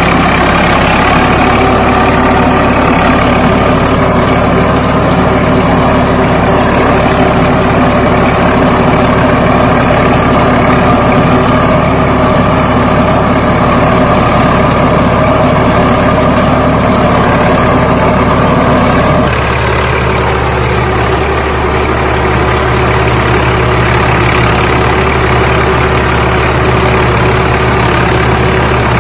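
Swaraj 855 FE tractor's three-cylinder diesel engine running steadily while driving a rotavator. About two-thirds of the way through, the engine note changes and the sound drops slightly in level, then holds steady.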